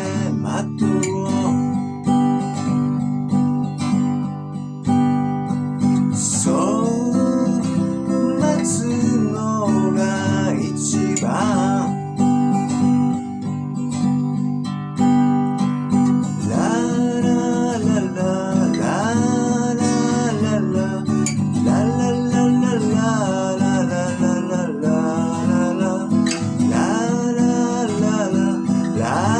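Acoustic guitar music: a steadily strummed acoustic guitar, with a voice carrying a gliding melody line over it.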